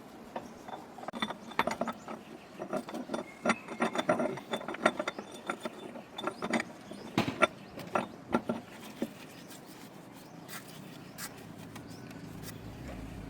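Irregular metallic clicks and clanks of tools and tractor parts being handled during a repair, busy for the first nine seconds or so, then only a few scattered clicks.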